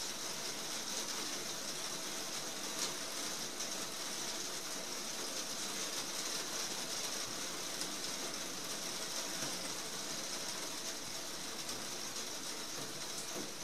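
Heavy rain falling steadily on the roof, heard from inside beneath it, with one louder drop about three seconds in.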